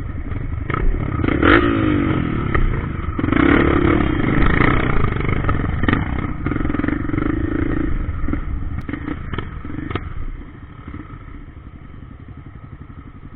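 Dirt-trail motorcycle engine revving on a climb: the pitch sweeps about a second and a half in, then it holds a steady pull, with scattered knocks and rattles. It fades about ten and a half seconds in.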